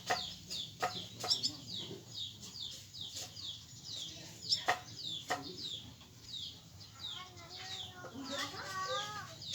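Birds chirping steadily: many short, high, falling chirps several times a second, with a few sharp clicks and a lower wavering call near the end.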